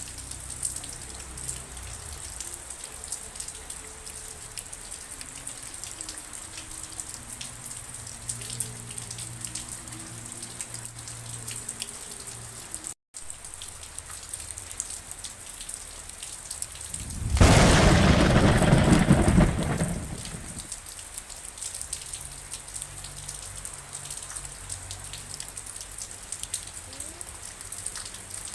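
Steady rain falling, with the patter of many individual drops. About 17 seconds in, a loud clap of thunder rumbles for around three seconds before fading back into the rain. The sound cuts out completely for a moment about 13 seconds in.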